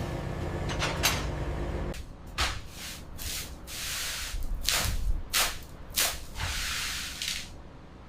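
A steady mechanical hum that cuts off about two seconds in, followed by a series of short hissing sprays, about six in all, two of them longer.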